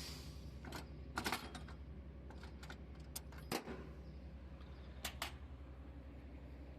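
A truck's engine running steadily with a low, even hum, with a few sharp metallic clicks and knocks scattered over it, the loudest a little over a second in and about three and a half seconds in.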